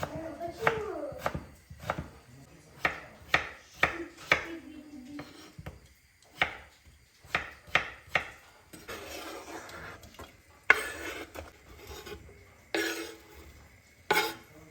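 Kitchen food preparation: a knife knocking on a cutting board in irregular strokes, with pots and dishes clattering and a few scraping sounds in the second half.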